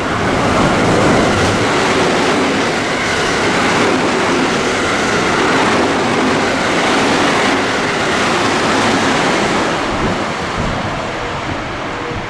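Train passing through a station at speed: a loud, steady rush of wheels on rail and moving air that swells in the first second and eases off near the end, with no horn sounded.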